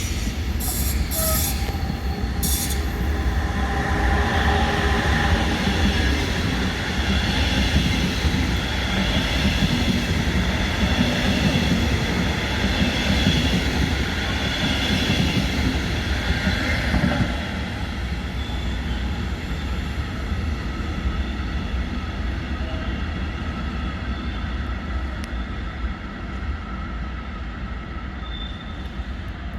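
A train moving along the tracks: a steady rumble with high, drawn-out wheel squeal, which dies down after about 17 seconds while the rumble carries on more quietly.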